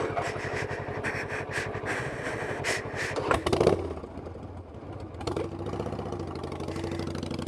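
Motorcycle engine running with fast, even pulsing, a brief louder burst a little over three seconds in, then a steadier, lower note.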